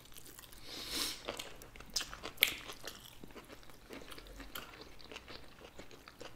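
Close-miked chewing of nigiri sushi: wet mouth clicks and smacks, with one sharper click about two and a half seconds in.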